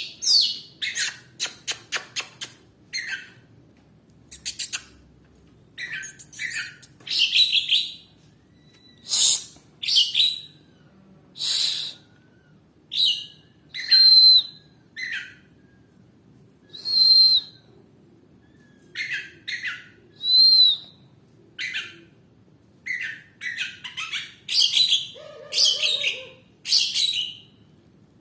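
Oriental magpie-robin (kacer) singing in full form: a long series of short, loud phrases, some fast runs of clicks, others clear high whistles that rise and fall, with brief pauses between phrases.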